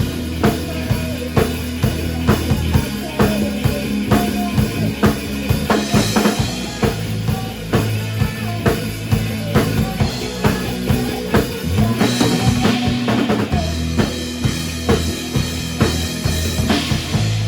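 Band music: a drum kit keeps a steady beat of about two strikes a second over a bass line, with no singing.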